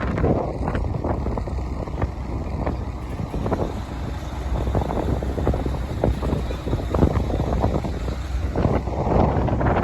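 A boat's motor running with a steady low drone while wind buffets the microphone in irregular gusts.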